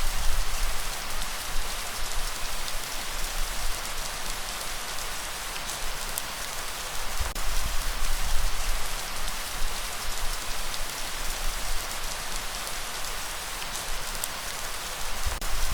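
Steady heavy rain pattering on a surface, dense with individual drop hits, over an uneven low rumble.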